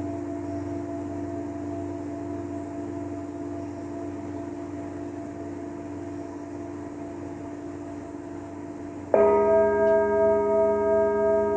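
A singing bowl rings and slowly fades. About nine seconds in it is struck again, and the new ringing tones waver in a slow pulse.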